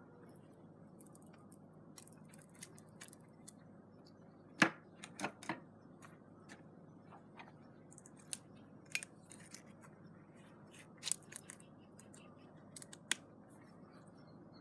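A blade cutting and scraping a green wooden branch to clean it into a skewer: irregular sharp clicks and snips, the loudest cluster about four and a half seconds in and another near eleven seconds.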